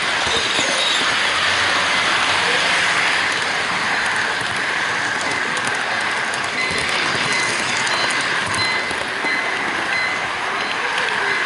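HO-gauge model freight train rolling along its track, heard up close from a camera riding on one of its container wagons: a steady rushing rattle of small metal wheels on rail, with a faint on-and-off high whine.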